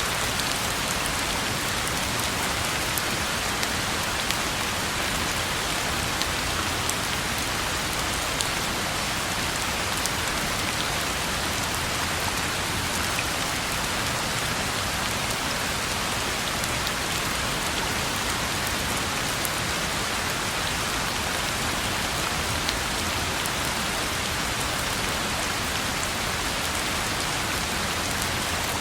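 Steady rain falling on a road: a dense, even hiss dotted with many small drop ticks.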